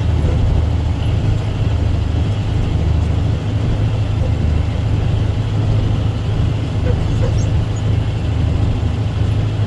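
Dump truck's diesel engine running steadily, a low rumble heard from inside the cab.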